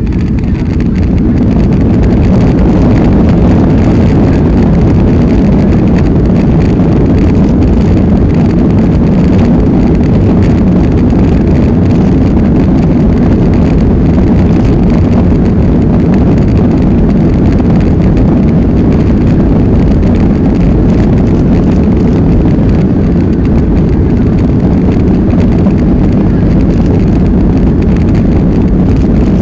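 Airliner jet engines and rushing air heard inside the cabin during takeoff. The noise is loud and steady and swells over the first couple of seconds before holding level.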